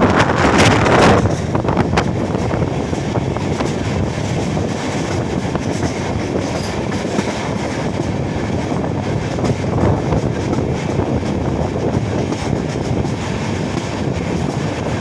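Express passenger train running at speed, its coach wheels rumbling on the rails with a few clicks over the track joints. The noise is louder for about the first second, then settles to a steady level.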